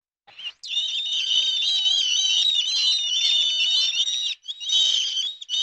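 Many small birds chirping and peeping at once in a dense, continuous chorus of high notes, broken briefly once near the end.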